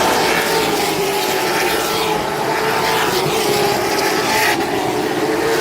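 Race car engines running at a steady speed, a continuous drone with no revving up or down.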